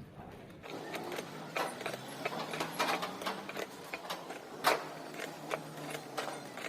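Irregular mechanical clicking and knocking over a low steady hum that starts about a second in, the sound of a small machine or tool at work.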